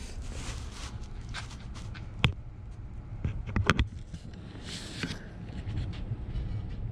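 Metal parts of a Phantom III front brake assembly being worked apart by hand: a sharp metallic click about two seconds in and a quick run of clinks near the middle, over a low steady hum.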